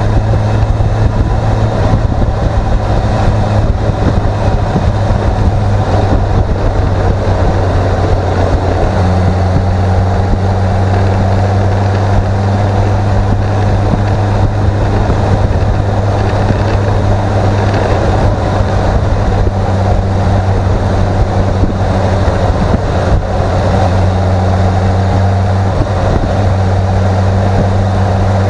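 Motorcycle engine running at a steady cruising pitch, its note shifting slightly about nine seconds in, under heavy wind rush on the bike-mounted camera's microphone.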